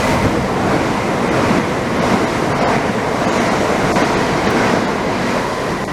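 Class 375 Electrostar electric multiple unit passing through the station non-stop at speed: a loud, steady rush of air and wheel noise.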